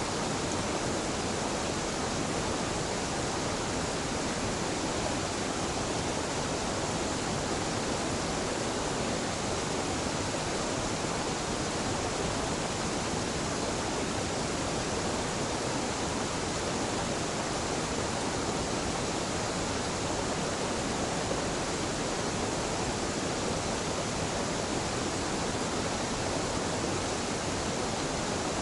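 A gentle waterfall rushing steadily: an unbroken, even roar of falling water with nothing else standing out.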